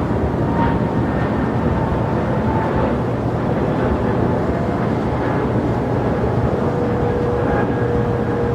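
Steady rumble of jet airliner engines, with a faint steady whine over it.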